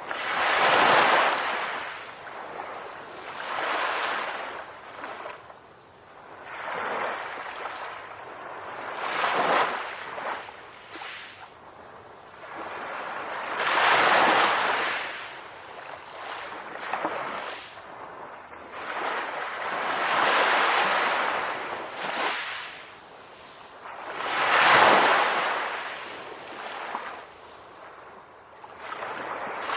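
Ocean waves breaking and washing up a beach, each surge swelling and fading every few seconds, the biggest about a second in, near the middle and near the end.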